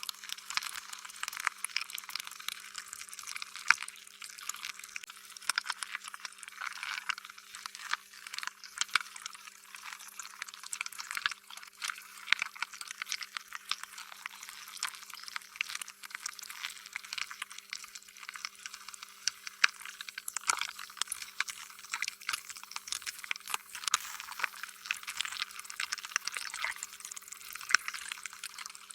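Slime being squished and stretched, a continuous run of small wet, sticky squelches and pops.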